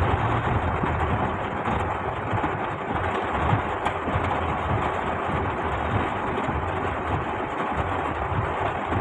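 Heavy rain on a car driving slowly through it: a steady hiss of rain and wet road noise over the running engine.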